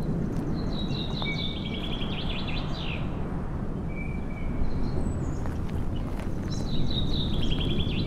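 A songbird singing: a run of quick high trilled notes, repeated about six seconds later, with a couple of short whistled notes between, over a steady low rushing background noise.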